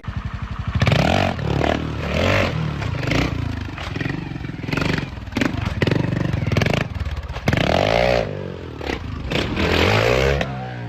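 Motorcycle engine revving up and down several times, with scattered knocks and clatter.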